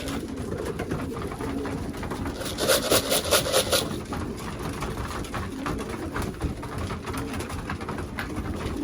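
Racing pigeons cooing, low and repeated, with a burst of rapid fluttering about two and a half seconds in that lasts just over a second.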